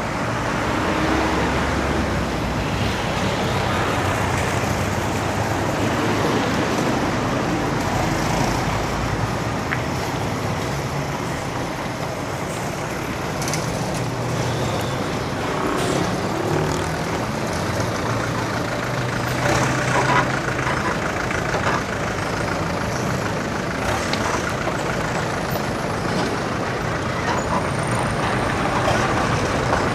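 Road traffic: the engines of trucks and cars running as they pass close by, over a steady rush of road noise, with a few short clicks.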